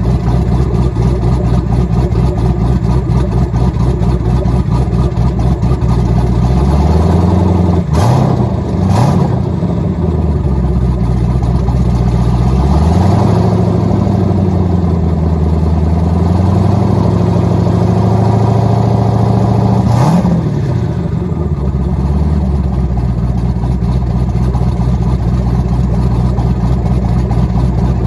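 Twin-turbo LS2 V8 with a big aggressive camshaft (BTR 230/242, 115+4 LSA) idling with a choppy lope, typical of cam chop. It is revved a few times: a couple of quick revs about a quarter of the way in, a longer rev held up around the middle, and a short blip about two-thirds through, each falling back to the lumpy idle.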